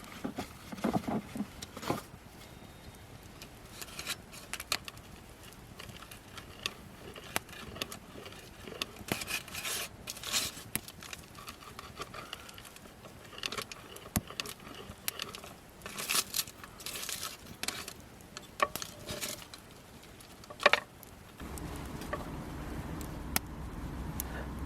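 Scattered handling noises: rustling, light clinks and scrapes of objects being moved about, with a sharp click a few seconds before the end. A low steady hum comes in near the end.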